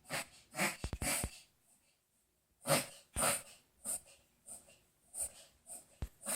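Pomeranian hiccuping: about ten short breathy hiccups, the first three close together, then a pause of about a second and a half before the rest come roughly every half second, with a few sharp clicks among them.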